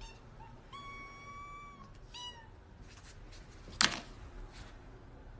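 A cat meowing: a couple of short, high meows, one longer steady meow about a second in and another short one a moment later. A sharp knock just before four seconds in is the loudest sound.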